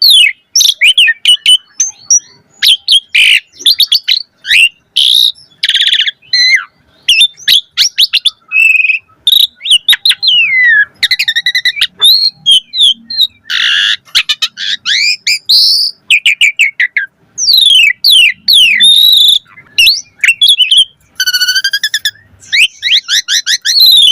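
Asian pied starling (jalak suren) singing a long, varied song: quick whistled sweeps and trills mixed with harsh, noisy chattering phrases, with hardly a pause.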